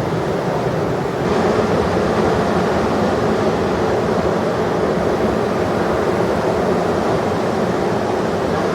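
Heavy ocean surf: a steady rush of breaking waves that gets a little louder about a second in.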